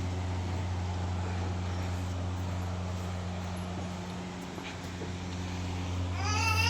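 A steady low machine hum, and near the end a single cat meow that rises and falls.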